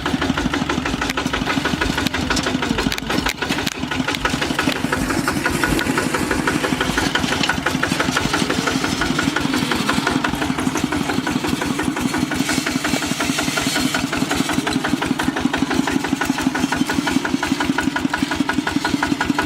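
Kubota RT-series walk-behind tractor's single-cylinder diesel engine running steadily with an even, fast chugging beat.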